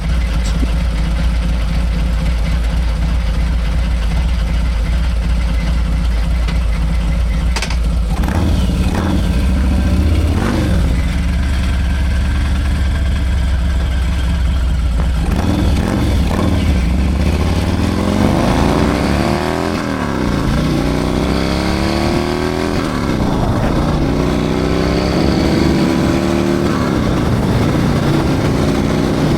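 Harley-Davidson Milwaukee-Eight 114 V-twin fitted with a Screaming Eagle 447 torque cam, running steadily at first. In the second half it accelerates hard, its pitch climbing and dropping back again and again as it shifts up through the gears.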